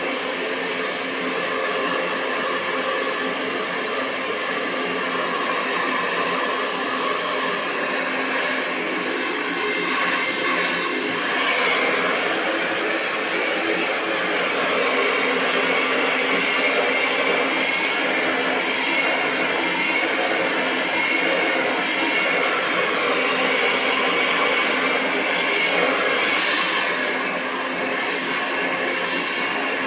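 Hair dryer running continuously: a steady rush of blown air with a faint, even motor whine on top.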